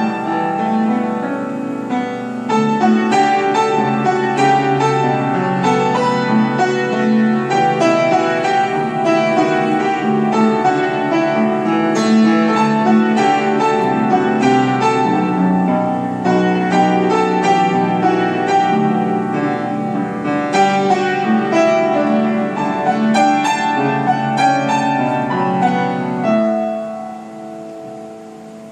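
Solo piano music playing a continuous melody with chords, easing down into a softer, held ending near the end.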